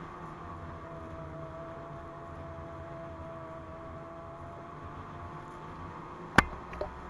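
Snowmobile's two-stroke engine, a Ski-Doo MXZ 600 carbureted twin, running at a fairly steady pace with slight changes in pitch, under a constant wash of track and snow noise. Near the end a sharp knock, then a smaller one just after.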